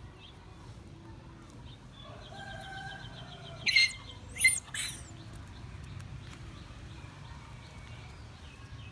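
Two short, loud, high-pitched animal calls about a second apart, with fainter chirping and a quick run of ticks just before them.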